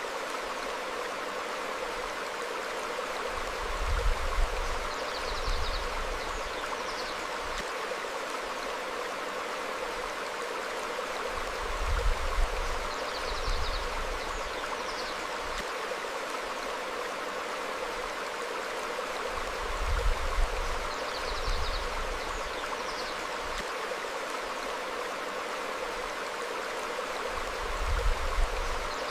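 Stream flowing over rocks, a steady rush of water. About every eight seconds a low rumble swells briefly, and a few faint, short bird chirps follow.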